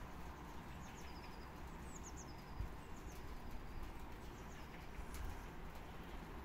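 Faint outdoor ambience: a steady low rumble with a few short, high, falling bird chirps in the first half.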